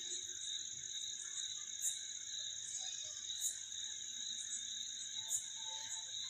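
Night chorus of calling insects and frogs: a steady high-pitched drone with three short, sharp chirps standing out over it.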